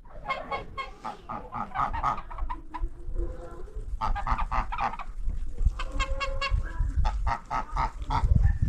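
Domestic geese honking, a run of short, repeated calls coming in several bursts.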